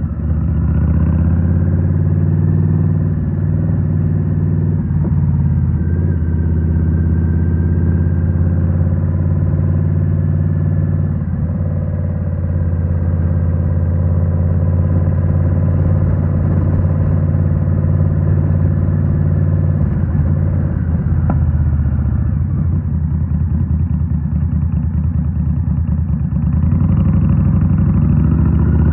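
Indian Scout Rogue's 69 cubic-inch V-twin running through a Rinehart slip-on exhaust while riding, mostly at a steady cruise. There is a short drop in level right at the start, and the pitch rises near the end as the bike accelerates.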